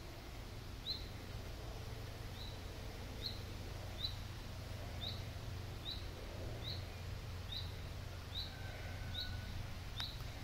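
A small bird repeating one short, high chirp over and over, a little more than once a second, over a low steady rumble.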